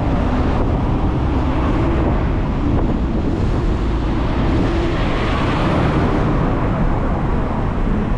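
Hong Kong double-decker tram running, a steady low rumble of motor and steel wheels on rails mixed with street traffic. A brighter hiss swells about five seconds in and then eases.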